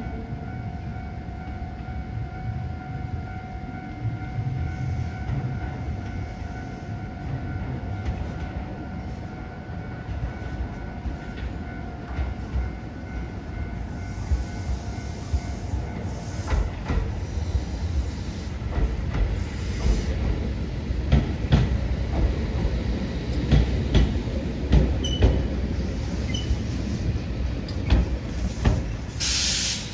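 Iyotetsu 700 series electric train arriving at a platform: a low rumble that grows louder about halfway through, then wheels clacking over rail joints and points. A short burst of air hiss comes near the end.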